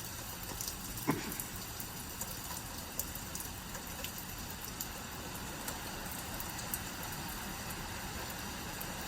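Steady heavy rain falling, with scattered sharp ticks of individual drops landing close by.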